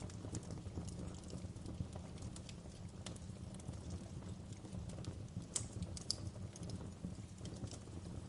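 Campfire crackling: a steady low rush of the burning fire with irregular sharp pops and snaps of burning wood, two louder pops a little past halfway.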